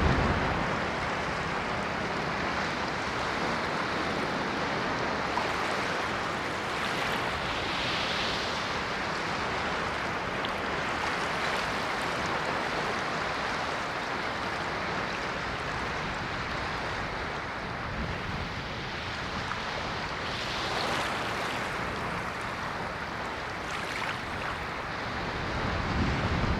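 Ocean waves washing on the shore, a steady rush of surf that swells and eases, with a stronger surge near the end.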